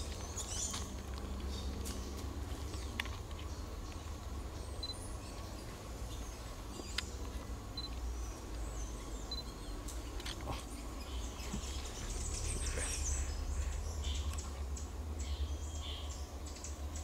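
Several small birds chirping and calling: short high chirps and quick downward-sliding notes scattered throughout, with a few brief high pips, over a steady low rumble.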